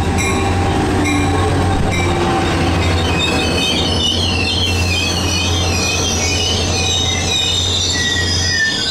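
Caltrain diesel locomotive and double-deck passenger cars pulling into the platform and slowing to a stop. A steady low engine hum runs under a bell ringing evenly for the first two seconds, then high, wavering wheel-and-brake squeal from the passing cars, fading near the end.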